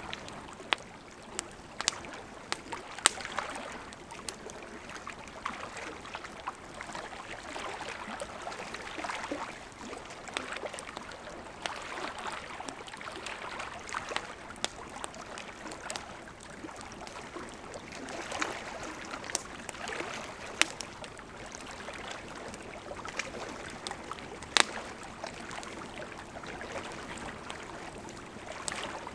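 Wood fire burning: a steady crackling hiss with scattered sharp pops, two of them louder, a few seconds in and again near the end.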